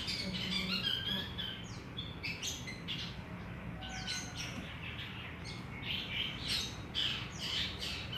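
Small birds chirping, many short high chirps and quick falling notes one after another, over a low steady hum.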